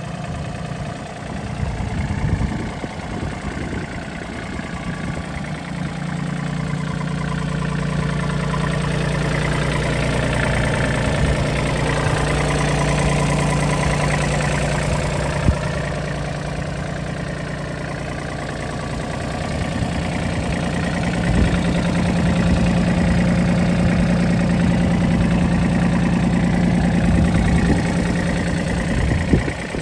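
Case DX26 compact tractor's diesel engine running, its speed rising and falling as it is revved and eased back, with a few sharp clanks along the way.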